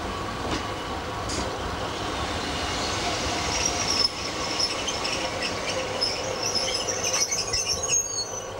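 Train running along the rails, its wheels squealing in high-pitched tones from about halfway through, with a few sharp clicks from the track.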